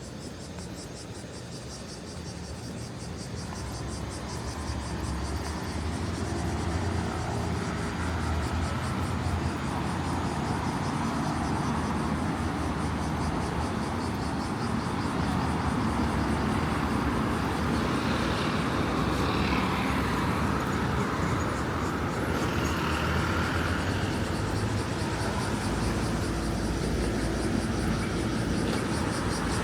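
Street ambience dominated by a low vehicle engine rumble, building up over the first several seconds and then holding steady.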